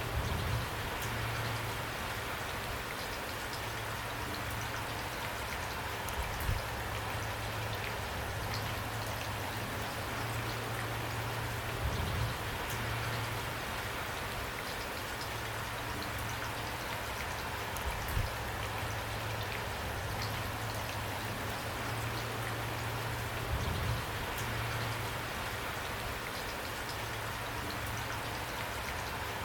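Steady rain falling, with a short low thud about every six seconds.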